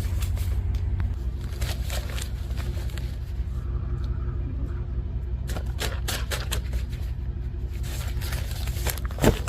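Car engine idling with a steady low rumble, over scattered scrapes and clicks of hands working on parts, with one sharp click near the end.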